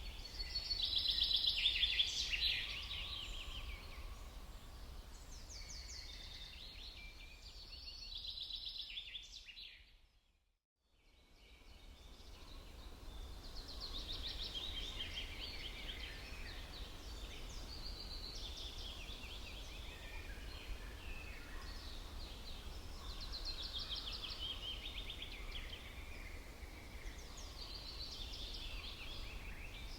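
Spring forest birdsong: small songbirds chirping and trilling in quick runs of high notes, the loudest near the start, over a low steady rumble. Everything fades out to silence about ten seconds in and fades back up, a loop join in the ambience track.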